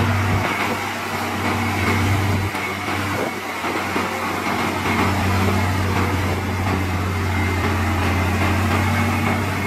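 Heavy diesel engine running steadily with a deep, even hum, easing briefly a few seconds in before picking up again.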